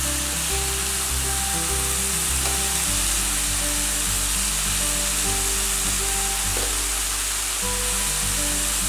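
Marinated beef short ribs sizzling steadily on a high-heat indoor smokeless grill, with background music underneath.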